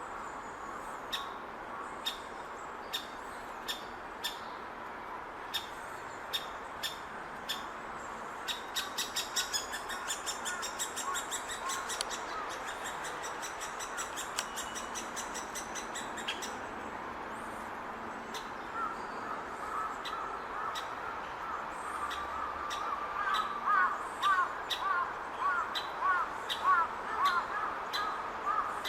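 Great spotted woodpecker nestling calling from the nest hole: sharp single high calls about every half second. About eight seconds in, as a parent arrives, they break into a rapid excited chatter of high notes lasting several seconds. In the second half, louder, lower, repeated harsh bird calls take over.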